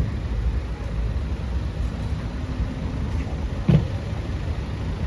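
Steady low rumble of city street traffic, with one brief loud thump a little over halfway through.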